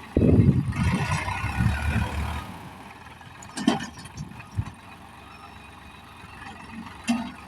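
Tractor engine running loud for about the first two and a half seconds, then dropping to a low steady rumble with two short sharp knocks.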